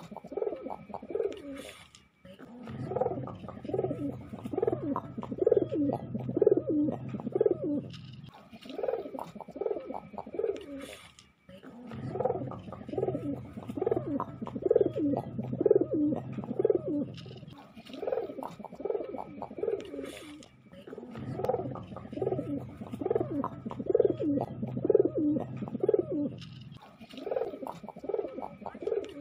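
Domestic pigeon cooing: the rolling 'ngabekur' coo, repeated in bouts of several seconds with short pauses between.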